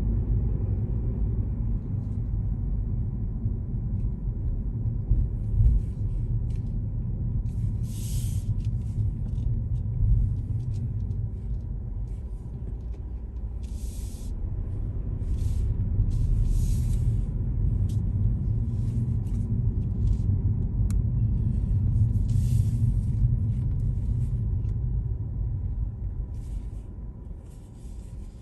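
Car driving through city streets: a steady low rumble of engine and road noise, with several short hisses scattered through it. The rumble fades near the end.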